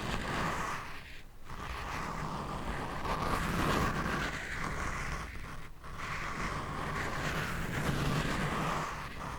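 Scratching and rubbing directly on a microphone in long, even strokes of several seconds each, with a short break about a second in and another past the middle.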